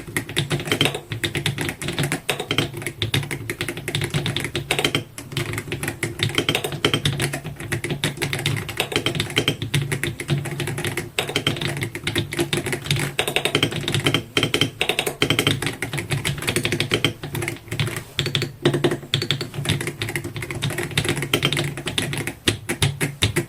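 Continuous fast typing on a Dareu A98 mechanical keyboard modded for a deep, clacky "mahjong" sound, like mahjong tiles knocking together. The keystrokes come in a dense, unbroken stream.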